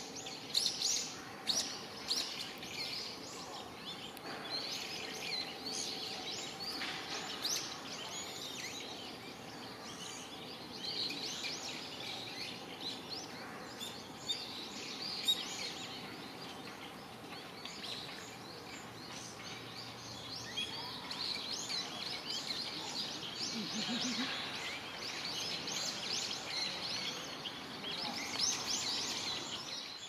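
Small woodland birds chirping busily, with many short high calls overlapping throughout.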